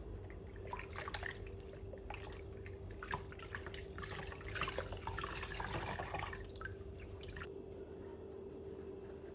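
Water from a tap splashing and dripping in a sink, irregular and stopping abruptly about seven and a half seconds in, over a steady low hum.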